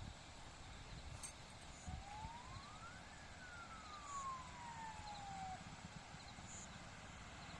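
Faint outdoor ambience with a single long whistle that rises for about a second and then slides slowly back down. Small high insect chirps recur every second or two over a low rumble.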